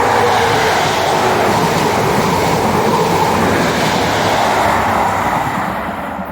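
A High Speed Train led by a Class 43 power car passing through the station at speed: a loud, steady rush of wheels and air that is at its loudest at the start and fades away near the end.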